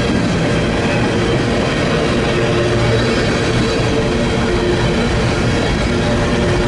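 A train rolling past, a steady, loud rumble of wheels on rail with some sustained tones over it.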